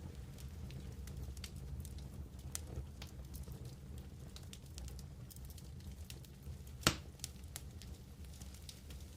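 Wood campfire crackling, with small pops scattered through and one sharp, louder pop about three-quarters of the way through, over a low steady rumble.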